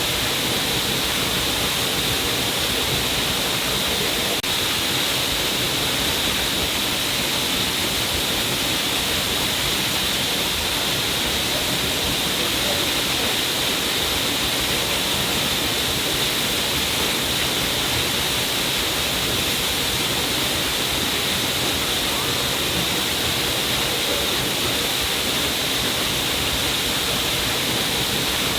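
Stream of water pouring down a cliff face, a steady rushing splash that does not change.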